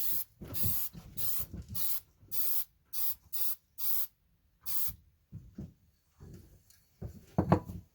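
Aerosol spray paint can hissing in about eight short bursts, spraying the repaired gauge wheel arm. A few knocks and a louder clatter near the end as things are handled or set down.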